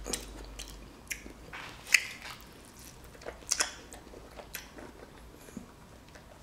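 Close-miked wet chewing and lip-smacking of a person eating a piece of soft orange-fleshed fruit, with irregular short smacks, the loudest about two seconds in and again about three and a half seconds in.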